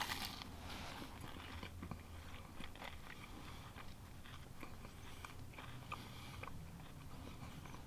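A bite into a grilled cheese sandwich on Texas toast with crushed barbecue potato chips pressed inside, then faint, irregular crunching as it is chewed.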